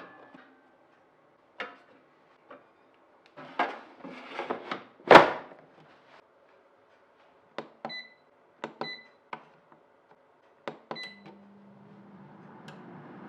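Kitchen appliance being used: a few knocks and one loud thud, then four short electronic keypad beeps with clicks between them, then a low steady hum that starts near the end as the appliance switches on.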